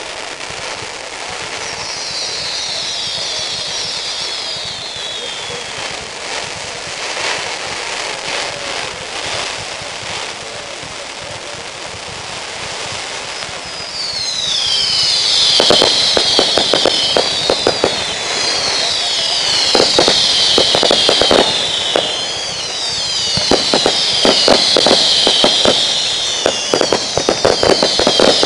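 Aerial fireworks: high whistles that fall in pitch, several at once, a few seconds in. From about halfway through, repeated volleys of falling whistles come with rapid crackling bangs.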